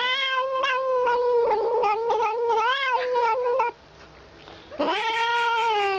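A domestic cat yowling: one long drawn-out call that wavers and rises briefly near its end, then after a short pause a second long yowl starting about five seconds in.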